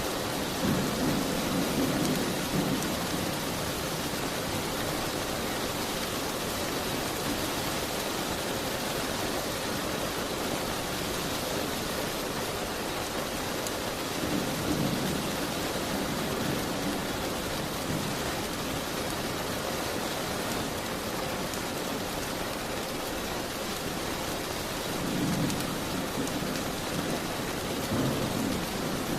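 Steady heavy rain, an even hiss, with a low rumble swelling up briefly near the start, about halfway through and twice near the end.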